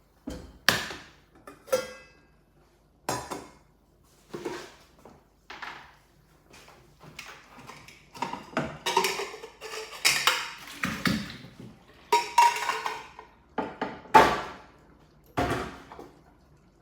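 Metal cookware and utensils clattering in a kitchen: a string of separate clanks and knocks with short ringing tails, thickest in the middle.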